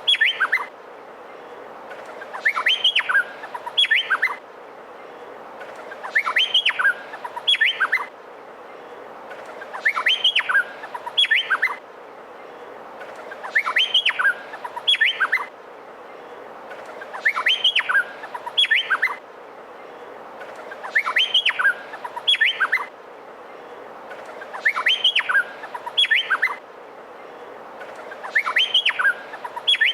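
Male Meliphaga honeyeater (cucak pantai) singing. The same short phrase of quick rising and falling whistled notes repeats about every three and a half to four seconds, about eight times, over a steady background hiss.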